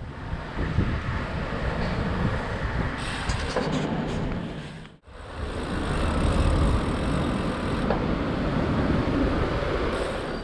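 Road traffic noise, steady, in two stretches split by a sudden cut about halfway through.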